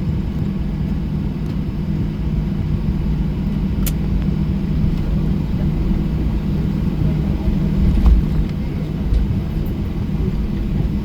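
Steady cabin rumble of a Boeing 737-800 on the ground, its CFM56 engines at idle, with a low hum. There is a light click about four seconds in and a low bump about eight seconds in, typical of the airliner rolling over taxiway joints.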